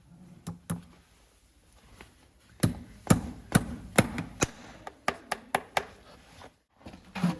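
Farrier's hammer striking in sharp blows: two light taps, then five heavy strikes about two a second, then a quicker run of lighter taps.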